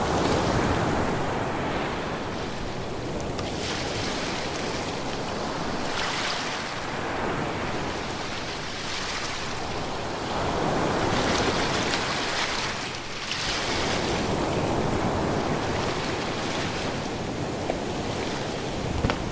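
Ocean waves, a continuous rush of surf that swells and eases every few seconds as waves break and wash back.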